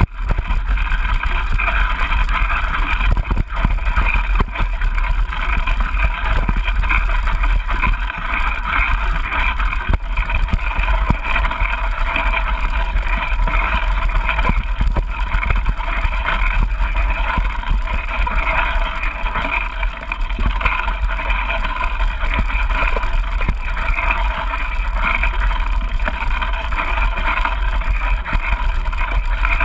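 Mountain bike ridden along a trail, heard through a GoPro: steady wind buffeting and low rumble on the microphone, with a constant run of small knocks and rattles from the bike and mount over rough ground.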